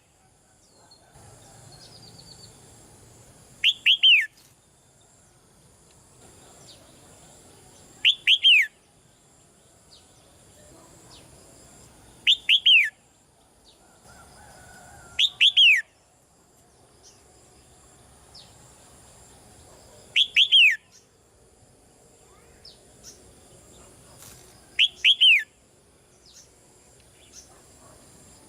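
Red-whiskered bulbul calling: short bursts of two or three quick notes sliding downward, repeated about every four seconds, six times.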